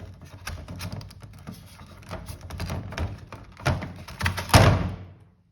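Plastic parts of a refrigerator ice-maker water pump assembly clicking and knocking as a piece is pressed into place, with one louder thud near the end before the sound cuts off suddenly.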